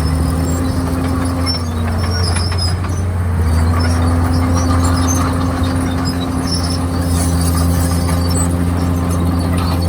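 Komatsu D51PX crawler bulldozer's diesel engine running steadily; its pitch sags about two seconds in and comes back up a second or so later.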